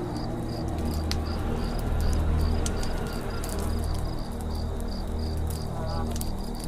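Campfire crackling with scattered sharp pops over a steady low rumble, while a cricket chirps in an even pulse about three times a second. A brief rapid trill comes in near the end.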